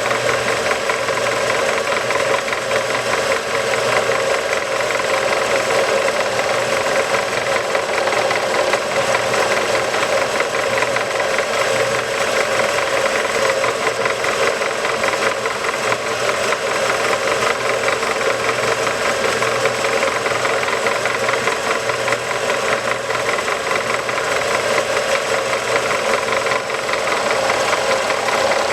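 A shop power tool running steadily, a continuous mechanical rattle over a constant motor hum with no pauses.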